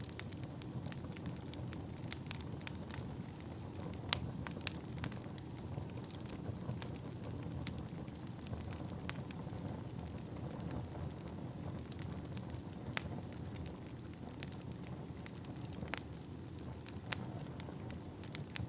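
Wood fire burning in a fireplace: a steady low rush of flames with irregular sharp crackles and pops, one louder pop about four seconds in.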